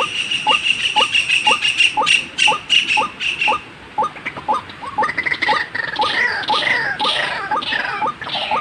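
White-breasted waterhen calls, the repeated notes used to lure the birds: short rising notes about twice a second, overlapped first by a pulsing higher note and then, from about halfway through, by falling higher calls.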